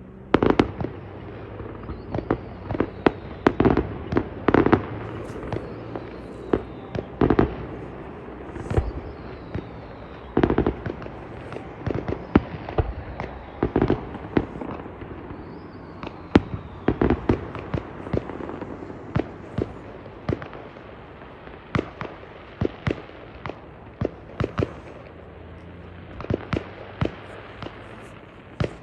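Fireworks going off: dozens of sharp bangs and pops at uneven intervals, some followed by a deeper rumbling boom, with a few faint falling whistles.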